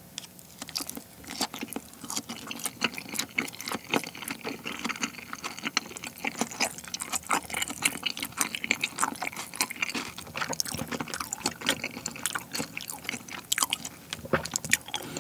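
Close-miked wet chewing of a thick salmon nigiri: a dense run of small moist clicks and smacks from the mouth.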